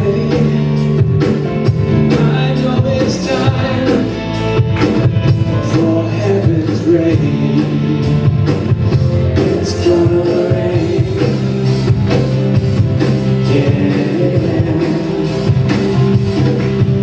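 Live worship band playing a rock-style song with drum kit, guitar and bass, with voices singing.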